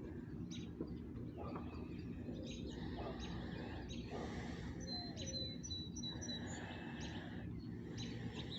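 Songbirds chirping with short high calls scattered throughout, with a quick run of repeated notes about five seconds in, over a steady low background rumble.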